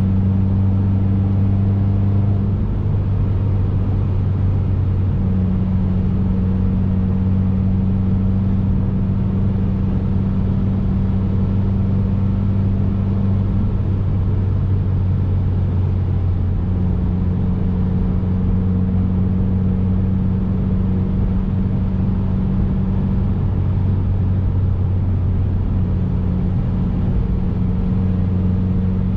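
2019 Subaru WRX's turbocharged flat-four engine running at a steady cruise, a low even drone over road rumble, with a few slight changes in the engine note.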